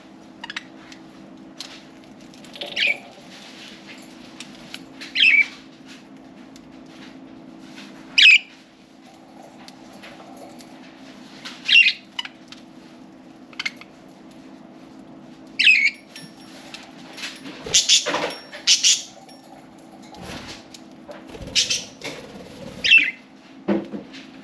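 Budgerigars giving short, sharp chirping calls every few seconds, busiest just past the middle, over a steady low hum.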